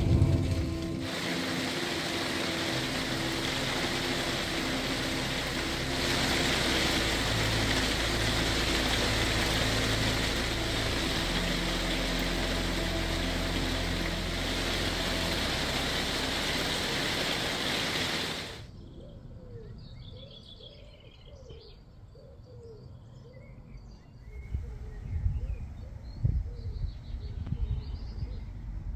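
Heavy rain falling steadily. It cuts off suddenly about two-thirds of the way in to quiet outdoor ambience with birds chirping, and a few low thumps near the end.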